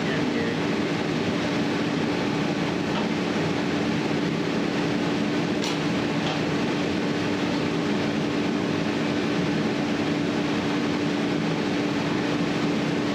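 Steady mechanical hum with an unchanging mid-pitched tone over an even rushing noise, with a faint tick about halfway through.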